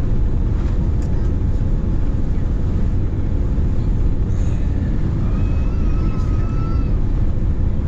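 Steady rumble of an airliner's cabin noise, engines and airflow heard from a window seat around the landing. A faint wavering higher tone rises over it for about two seconds a little past the middle.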